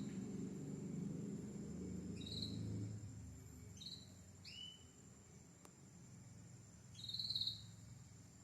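Belgian canary giving a few short, high chirped call notes, spaced out, the longest and loudest near the end. A low rumble underneath fades out about three seconds in.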